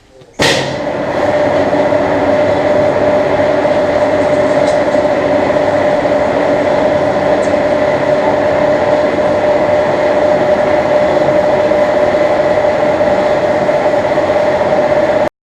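Skoda Octavia 1.6 TDI diesel engine starting and then idling steadily with an even hum. It cuts off suddenly near the end.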